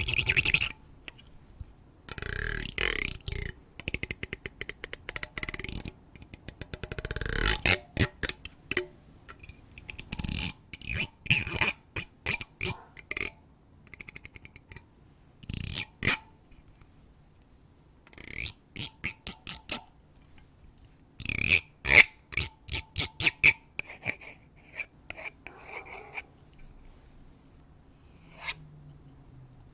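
Close-up scratching, brushing and rapid clicking right at the microphone, coming in irregular bursts and runs separated by short pauses. A steady high cricket trill sounds underneath.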